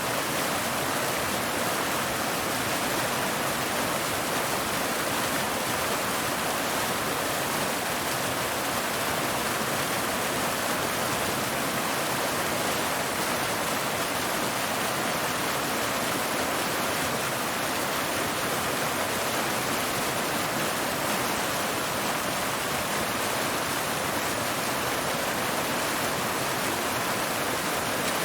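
Waterfall: water pouring steadily over rocks, an even, unbroken rushing.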